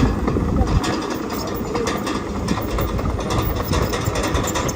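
Heavy diesel earthmoving machinery running steadily, with a scatter of short clicks and knocks over the engine rumble.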